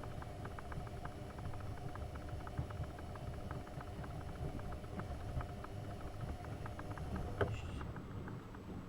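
AEG Öko-Lavamat 72520 washing machine running mid-cycle: a steady motor hum and drum rumble with many light irregular clicks. The motor hum stops about seven and a half seconds in.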